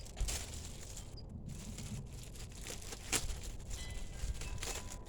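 Rustling and a few light knocks from a cabin air filter being handled and turned over.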